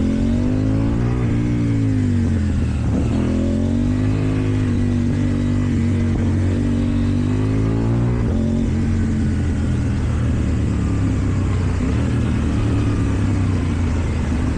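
KTM Duke 790 parallel-twin engine running through an Akrapovič exhaust, its revs rising and falling a few times over the first eight seconds, then holding steady.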